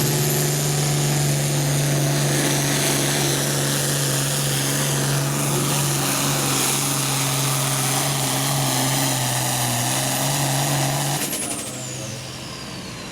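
Hot farm-class pulling tractor's turbocharged diesel engine running hard at full throttle under load, with a high whistle climbing slowly above it. About eleven seconds in, the throttle drops and the engine noise falls away, while the whistle glides steeply down as the turbo winds down.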